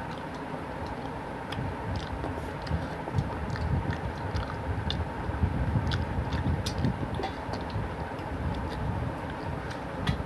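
Close-up eating by hand: chewing with small wet mouth clicks and scattered light ticks of fingers picking at fish on a steel plate, over a steady low rumble.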